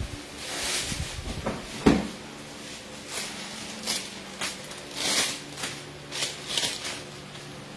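Handling noises: a string of irregular knocks, scrapes and rustles, the loudest a sharp thump just before two seconds in, over a steady low hum.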